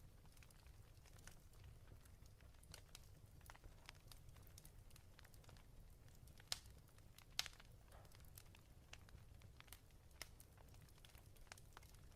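Faint crackling of a wood fire in a fireplace: scattered small snaps over a low steady rumble, with two louder pops a little past the middle.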